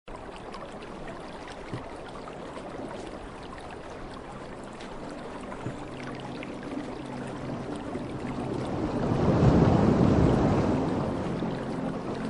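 Running water flowing in a natural stream: a steady rush with small splashes and drips, swelling louder about nine to ten seconds in before easing back.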